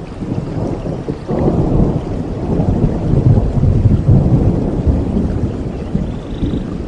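Thunder rumbling over steady rainfall in a rainforest storm: the low rumble swells sharply about a second in, is loudest in the middle and slowly dies away.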